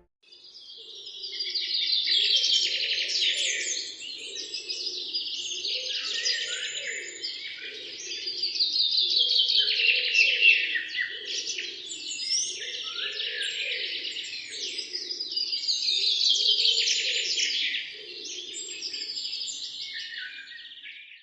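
Songbirds singing: dense, rapid chirps and trills that swell and fade in about three waves, over a lower, evenly pulsing sound.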